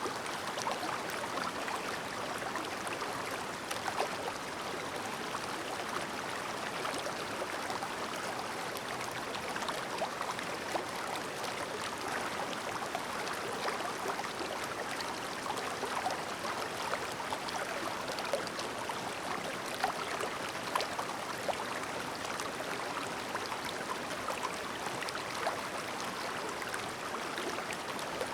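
Clear stream babbling steadily, with many small splashes and plinks of water scattered throughout.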